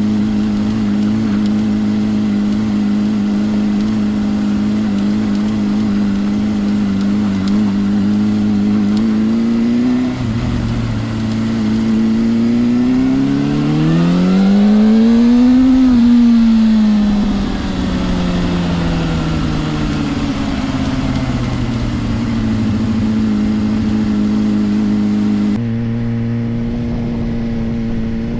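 Suzuki GSR 400 inline-four engine running through a Yoshimura exhaust while riding, holding steady revs at first. About ten seconds in the revs drop, then rise in one smooth pull for a few seconds and fall back to a lower steady note. Near the end the pitch jumps up suddenly.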